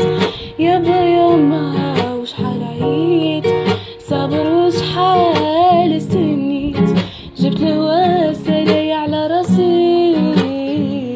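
A woman singing the closing phrase of a song over a strummed acoustic guitar, the strums falling in a steady rhythm.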